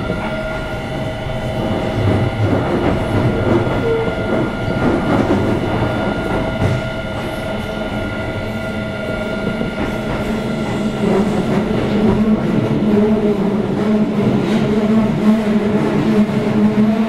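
Keio 7000-series electric train car running on the line, heard from inside the car: wheels rolling on the rails with occasional joint knocks, over a steady electrical whine from the traction equipment that grows louder in the second half.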